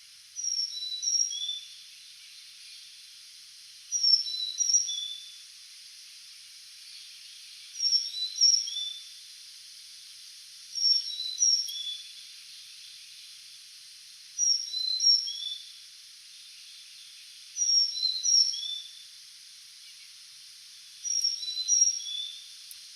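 A songbird singing the same short phrase over and over, about every three and a half seconds: a few quick high notes stepping downward, seven phrases in all, over a faint steady hiss.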